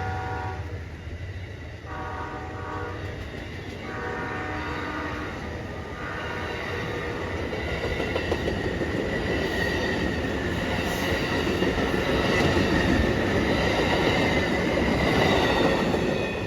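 Amtrak passenger train approaching with its locomotive horn sounding several blasts, then the train passing close by: a rising rumble of wheels on rail with a steady high ringing tone above it, loudest near the end.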